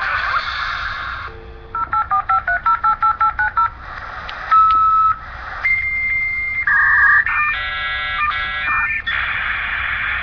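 Dial-up modem connecting: a dial tone, then a quick run of about eleven touch-tone digits, then single steady tones and a stretch of many tones sounding at once in the handshake, which turns into a steady hiss near the end.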